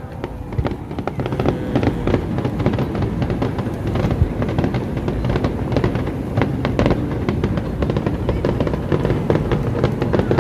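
Fireworks display: a dense, rapid crackle of many small bursts over a low rumble, with louder bangs scattered through, one of the loudest about four seconds in.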